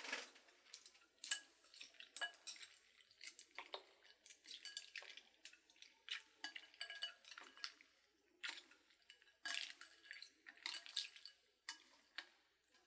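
Faint utensils clinking, tapping and scraping against dishes: a string of short separate clinks, some with brief ringing, thinning out near the end.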